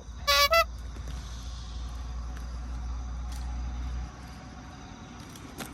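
Gas burner torch running with a steady low roar that cuts off about four seconds in. Two short, loud, high-pitched chirps sound just after it starts.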